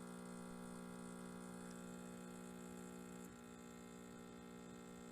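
Gaggia Classic espresso machine's vibratory pump humming steadily while brewing a shot, its level dropping a little about three seconds in.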